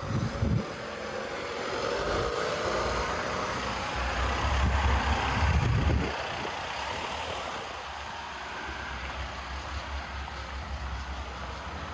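A motor vehicle passing on a city street. Its engine rumble builds to its loudest about five seconds in, then drops back into steady street noise.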